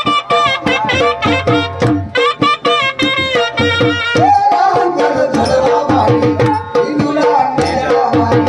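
Gujarati folk music: a sarnai, a shehnai-type double-reed pipe, plays a bending, ornamented melody over dhol drumming in a quick, steady beat.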